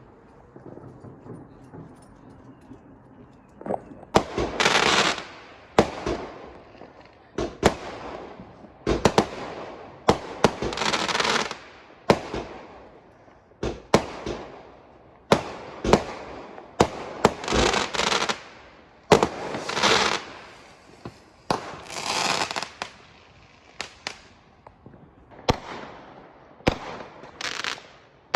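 Fireworks going off in quick succession: sharp bangs, most of them followed by about a second of crackling, starting about four seconds in after a quieter start.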